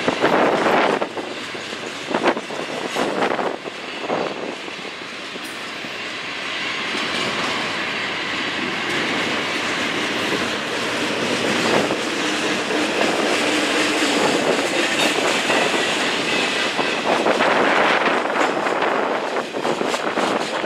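Train rolling past, a steady rush of wheels on rail with some clickety-clack, while wind buffets the microphone in gusts, strongest in the first few seconds.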